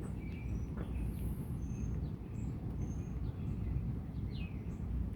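Birds chirping, several short high whistled calls, over a steady low rumble of outdoor noise.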